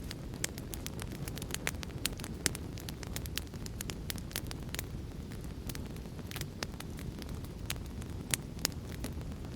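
Wood fire crackling: a steady low rumble of burning with frequent irregular sharp pops and snaps, several a second.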